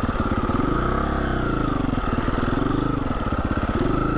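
Husqvarna 350 FE dirt bike's single-cylinder four-stroke engine running at low revs. Its pitch rises and falls a few times with short throttle openings.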